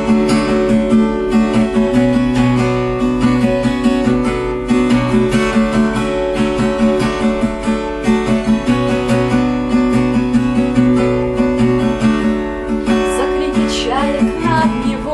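Acoustic guitar strummed in a steady rhythm: an instrumental break between the sung lines of a song.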